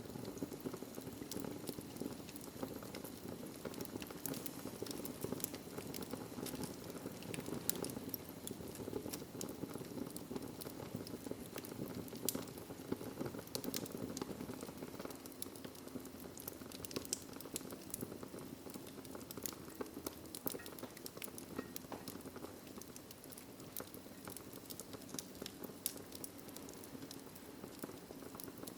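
Wood fire burning in a fireplace, crackling with frequent sharp, irregular pops over a steady low rush of flames.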